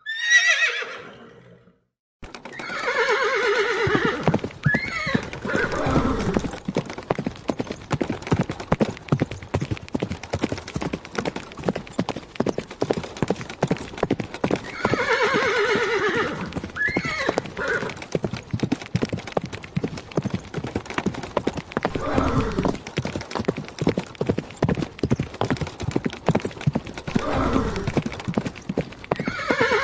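A horse's hooves clip-clop in a fast, steady rhythm. Over them the horse whinnies about five times, each call a shaky, wavering neigh that falls in pitch. A short falling whoosh comes first, then a moment of silence before the hooves start.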